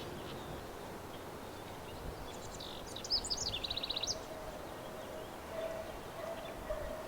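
A songbird sings one phrase about two seconds in: a few quick high notes, then a fast, even trill.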